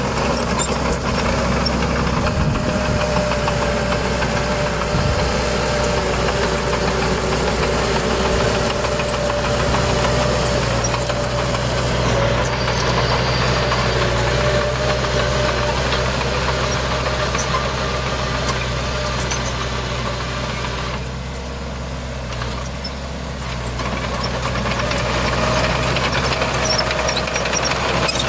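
Furukawa D20P bulldozer's diesel engine running steadily, with a thin whine over the low engine note that wavers in pitch. The sound eases off briefly about three quarters of the way through, then comes back up.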